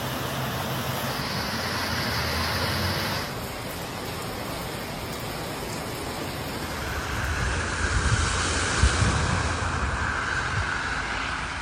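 Steady roar of rushing floodwater mixed with wind noise. The tone shifts about three seconds in and again around seven seconds, and it grows louder with a few low thumps near the end.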